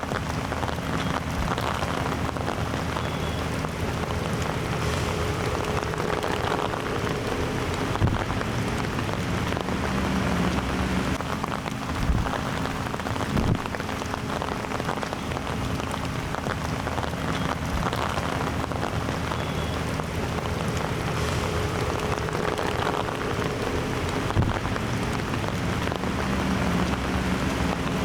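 Heavy rain falling steadily, with a few sharp knocks from heavier drops or impacts and a faint steady low hum underneath.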